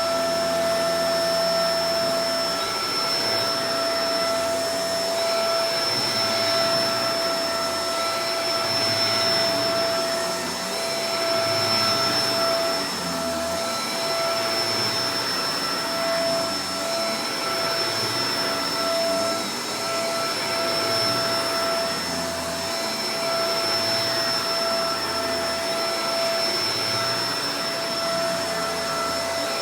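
Shark Professional Powered Lift-Away DLX (NV586) upright vacuum cleaner running steadily: a constant rush of air with a steady motor whine, swelling slightly now and then.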